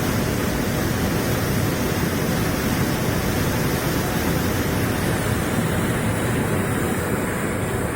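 Floodwater rushing steadily, a dense even noise with no pauses; the highest hiss thins a little near the end.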